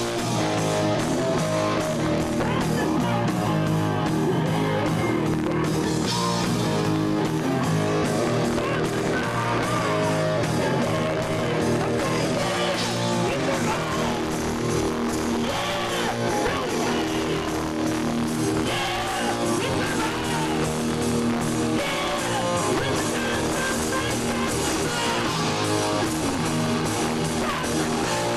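Live rock band playing, with guitars to the fore.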